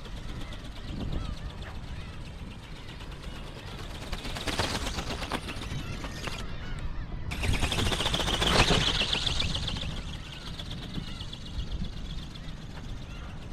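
Wind buffeting the microphone, over the rapid ticking clatter of a radio-controlled flapping-wing ornithopter: a small brushless motor driving its wings through a plastic gear train. It grows louder for a few seconds about halfway through, as it passes close.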